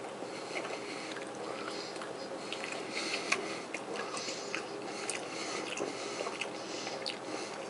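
Mouth sounds of someone chewing a bite of smoked sausage: scattered soft wet clicks, busiest a few seconds in, over a steady low background hum.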